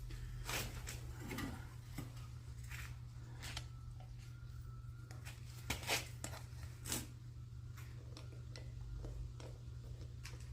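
Scattered light clicks and rustles of something being handled, over a steady low hum, with a few sharper knocks about six and seven seconds in.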